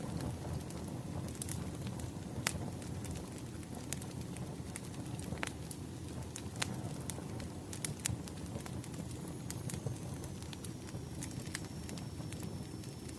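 Wood fire crackling: a steady low rumble of burning logs with scattered sharp pops and snaps. A faint thin high whistle comes in during the last few seconds.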